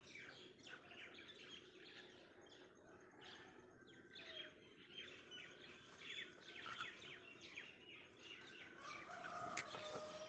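Many small birds chirping faintly, a dense run of quick, high, short calls.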